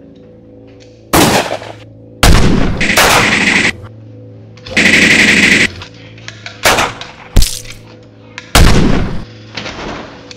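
Gunfire sound effects for a staged shootout: a single shot, then two long bursts of automatic fire, a couple of single shots and another burst, over background music.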